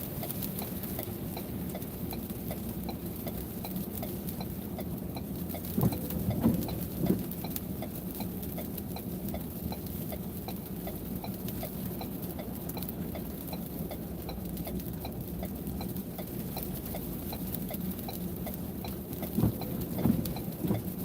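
Steady low hum of a vehicle with an even, repeated ticking over it, heard from inside the cab. A few louder knocks come about six seconds in and again near the end.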